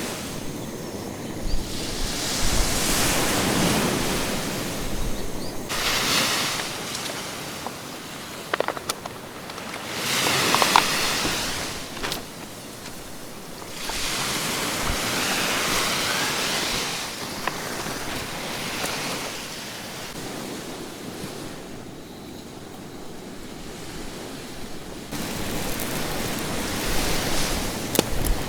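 Sea surf washing onto a beach, the hiss of the waves swelling and falling back every few seconds.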